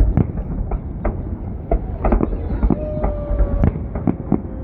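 Fireworks bursting in a quick, irregular run of bangs over a continuous low rumble. A short steady whistle-like tone sounds about three seconds in.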